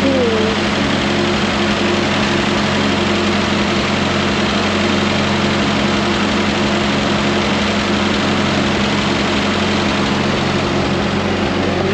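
Ford 8N tractor's four-cylinder flathead petrol engine idling steadily, running again after sitting for years.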